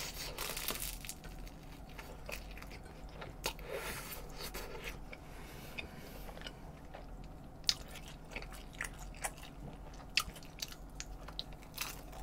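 Close-up chewing and biting of sauce-glazed fried chicken, with short crisp crunches and wet mouth clicks scattered throughout.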